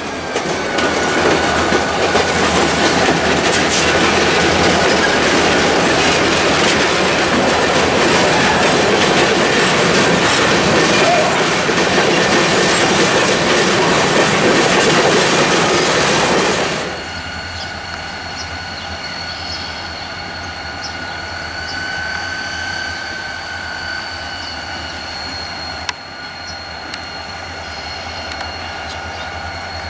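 Loaded freight train's covered hopper cars rolling past close by: a loud, steady rush of steel wheels on rail, with a thin high squeal in the first few seconds. About two-thirds of the way through it drops suddenly to the quieter sound of the locomotives moving at a distance, with a steady high whine over a low rumble.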